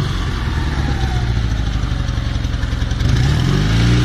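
A vehicle engine running steadily, then rising in pitch near the end as it revs up.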